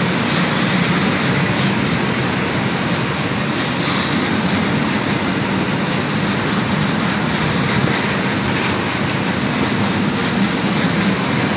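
Freight train of loaded double-deck car-carrier wagons rolling past on the track: a steady rumble and rush of steel wheels on rails.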